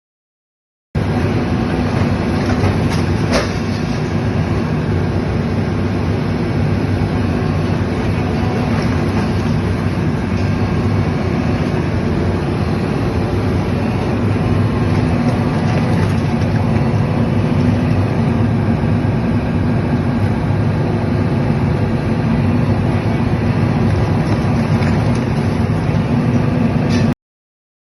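Heavy construction machinery, most likely an excavator working with a hydraulic attachment, running with a steady, dense mechanical rumble. It starts abruptly about a second in and cuts off suddenly near the end.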